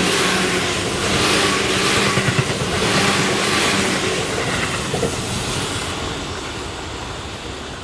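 Yagan Railway 6050-series electric train running past at speed. Its wheels rumble and clatter along the rails in surges about once a second as the cars go by. The sound then fades away over the last few seconds as the train recedes.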